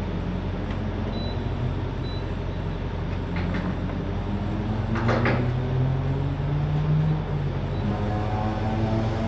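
Semi truck's diesel engine running under way, heard from inside the cab, with a steady low rumble; its pitch rises over a few seconds in the middle as the truck pulls harder, with a brief rushing noise about five seconds in.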